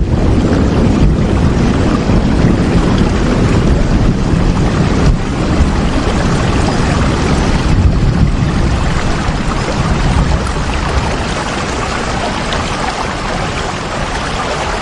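Steady rain noise with a strong, deep rumbling low end, as in a downpour with wind. It eases slightly in loudness near the end.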